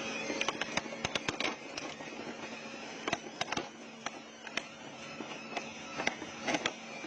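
Industrial shredder crunching through an engine: irregular sharp cracks and snaps of breaking metal over the machine's steady hum.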